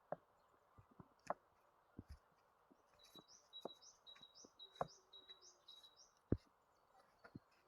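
A small bird calling a quick series of about seven short, high chirps, roughly two a second, starting a few seconds in. A few sharp clicks or knocks are heard now and then.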